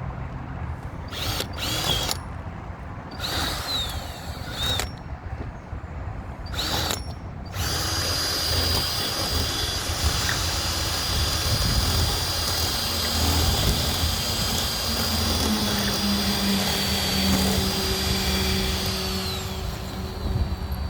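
Handheld electric power tool working wood: three short runs that each spin up and down, then a long run of about twelve seconds with a steady high whine, winding down near the end.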